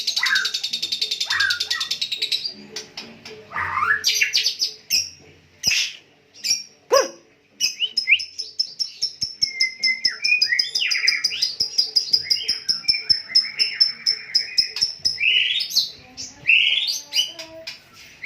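White-rumped shama (Medan-strain murai batu) singing in full song: a fast high trill at first, then varied whistles, sweeps and chatters, and a long rapid high trill over the middle with lower warbling notes mixed in.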